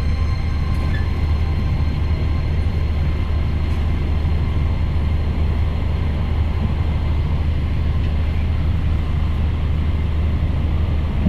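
Passenger train running along the track with a steady, even rumble of wheels on rail.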